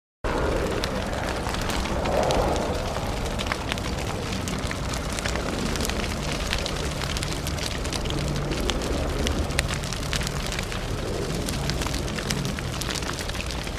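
Fire burning: a steady rushing noise of flames with low rumble and frequent sharp crackles and pops, cutting in suddenly just after the start.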